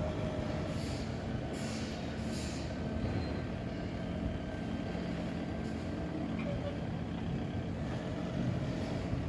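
Scania truck's diesel engine running steadily at low revs, with three short hisses of compressed air from its air system in the first few seconds.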